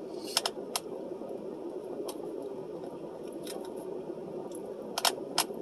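Chewing fried oysters close to the microphone: scattered sharp mouth clicks and smacks, a cluster near the start and another near the end, over a steady low hum.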